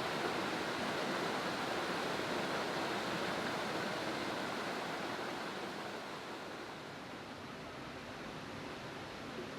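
Steady rush of falling water from a waterfall, growing a little quieter from about six seconds in.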